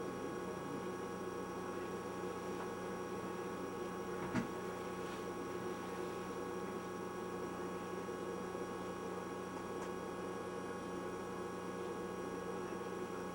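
Steady electrical hum and hiss with several fixed tones, unchanging throughout, and one sharp click about four seconds in.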